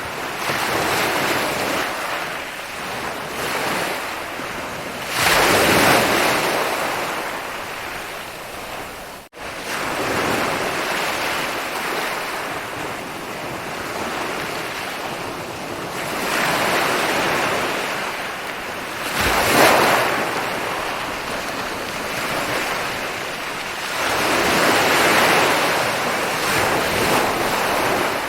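Ocean surf rolling in and breaking on a beach, rising and falling in swells, with loud breaks about five seconds and twenty seconds in. The sound drops out for an instant about nine seconds in.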